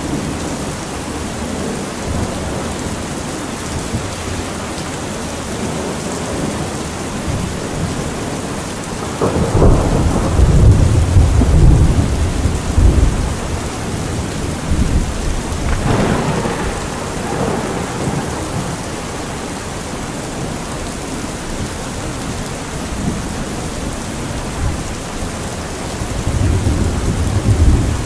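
Steady rain with low rolls of thunder. The biggest roll comes about a third of the way in and lasts a few seconds, a weaker one follows a few seconds later, and another builds just before the end.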